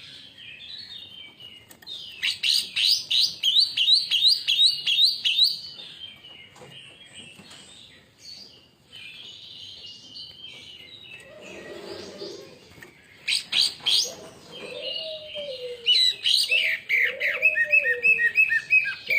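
Greater green leafbird (cucak ijo) singing: fast runs of loud, sharp chirping notes about two seconds in, again around thirteen seconds and from sixteen seconds on, with quieter warbling between. Low arched hooting notes, repeated about once a second, join near the end.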